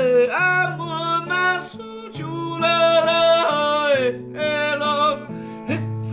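Singing with long held, gliding notes over acoustic guitar accompaniment.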